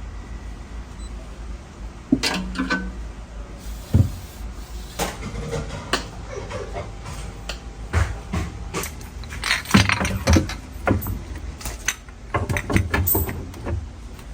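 Kitchen items being handled: a run of scattered knocks, clinks and rattles, busiest around ten seconds in and again near the end.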